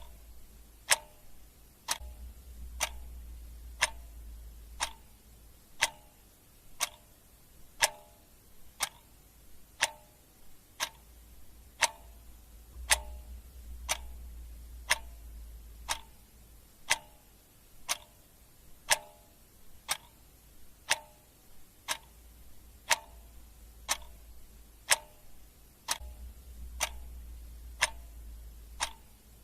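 Clock ticking steadily, about one tick a second, with a faint low hum that comes and goes.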